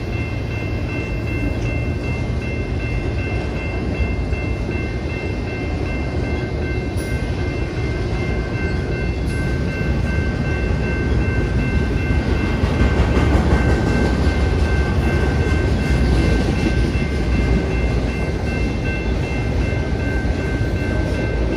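A freight train of autorack cars rolling past, its wheels rumbling and clattering on the rails, a little louder in the middle. A steady high ringing runs over it throughout.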